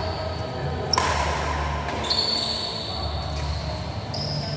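Badminton rally on an indoor court: a sharp racket hit on the shuttlecock about a second in and another about two seconds in, with several high-pitched shoe squeaks on the court floor.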